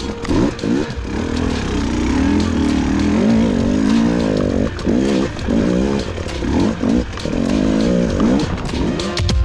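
KTM enduro motorcycle engine revving up and down in short blips of throttle, its pitch rising and falling over and over, with a few brief drops in level in the second half.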